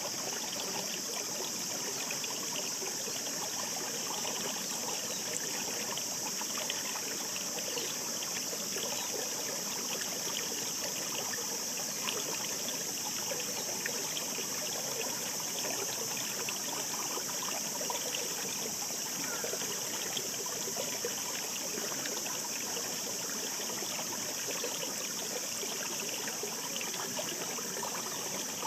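Shallow mountain stream running over rocks, a steady babble and trickle full of small splashes, with an even high hiss over it.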